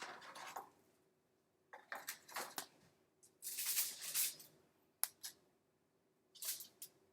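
Intermittent rustling and scraping handling noises in several short bursts, with a sharp click about five seconds in.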